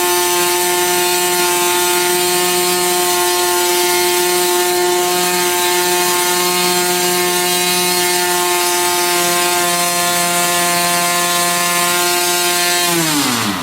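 Magnum XLS-61 two-stroke glow engine turning a 13x6 model-airplane propeller at full throttle, a steady high-pitched buzz held at about 9,900 rpm. Near the end it drops sharply in pitch as the engine is throttled back.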